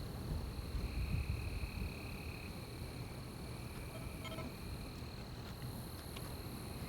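Night-time insects trilling: one steady high-pitched trill throughout, with a second, lower trill in the first few seconds, over a low rumble.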